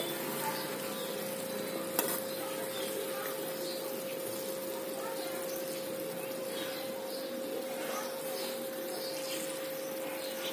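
Potato and brinjal sabzi sizzling gently in a kadhai over a low gas flame, a steady soft hiss. A faint constant hum runs underneath, and there is one click about two seconds in.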